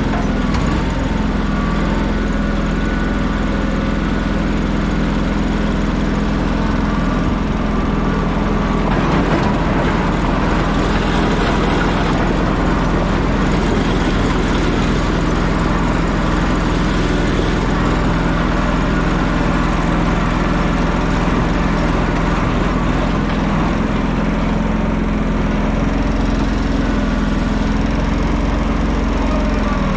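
An engine running steadily with a constant low hum, the noise unchanging throughout.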